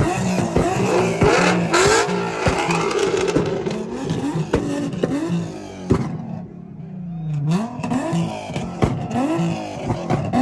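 A car engine being revved over and over, its pitch rising and falling with each blip of the throttle, with sharp exhaust pops scattered between the revs.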